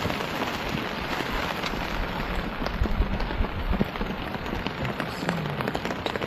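Steady rain falling, with many small drop ticks over a continuous hiss.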